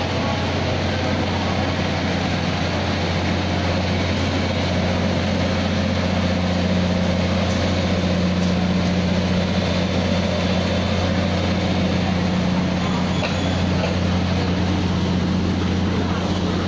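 Taroko Express electric tilting train (TEMU1000) pulling slowly into a station along the platform: a steady low electric hum under a rumbling noise, swelling slightly as the train draws alongside.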